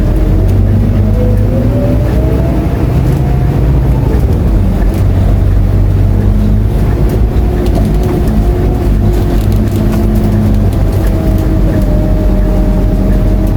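Scania K230UB bus's diesel engine and driveline heard from inside the cabin while under way: a loud, steady low drone with a whine that rises in pitch over the first few seconds, holds, then eases down near the end.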